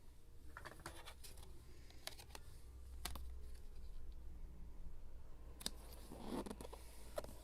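Scrapbooking paper work: scattered sharp clicks and snips, with a short rustle of paper about six seconds in.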